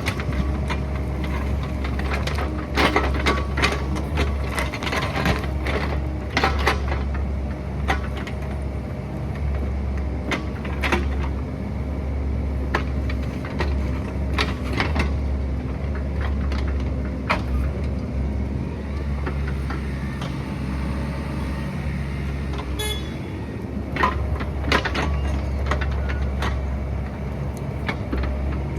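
Excavator's diesel engine running steadily, with repeated clanks and scrapes of the steel bucket working in rock, loudest in bunches early and near the end.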